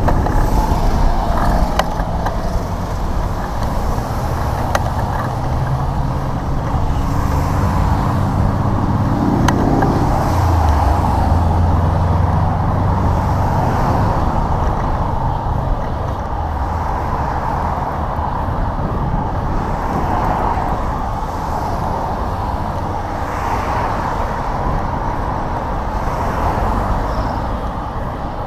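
Road traffic noise mixed with wind buffeting the microphone, a steady rumble throughout. A motor vehicle passes close by, its engine tone building from about six seconds in and loudest around ten seconds.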